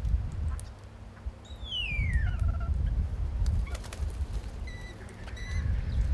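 Birds calling: one clear whistle sliding down in pitch about a second and a half in, then a few short high notes near the end, over a steady low rumble.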